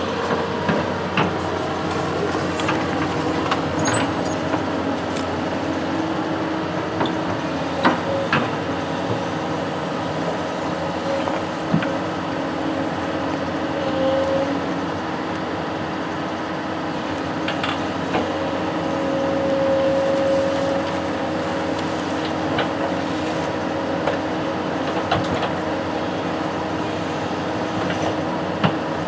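Construction machine's engine running steadily, with scattered short clanks and knocks; it briefly grows louder about two-thirds of the way through.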